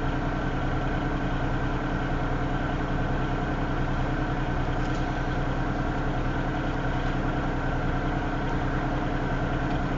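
Engine idling steadily at a constant speed, an even hum that does not change.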